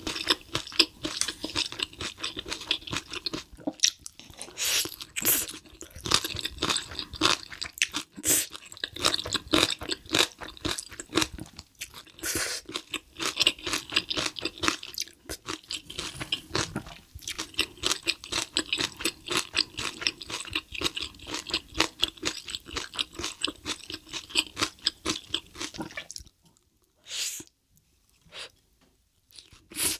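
Close-miked chewing of spicy stir-fried cuttlefish with rice: a dense run of quick wet clicks and crunches. Near the end the chewing stops for about four seconds, broken only by two brief sounds.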